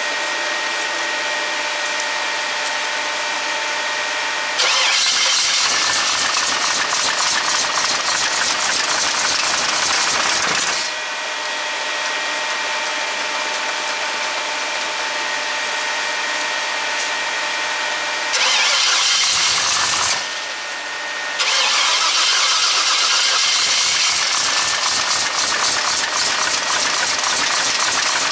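A 350 small-block V8 in a Chevy S10 being cranked over on a hard cold start, in three bursts: about six seconds, then about two, then a longer one running on. A steady whine sits in the pauses between them. The hard start goes with an engine that is not yet fully tuned.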